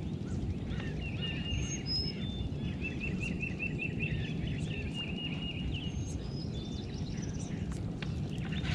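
Birds chirping and whistling, including a quick run of about seven chirps a few seconds in, over a steady low rumble.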